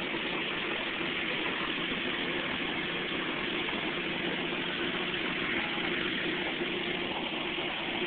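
Nissan SR20DET turbocharged inline-four idling steadily, with no revving.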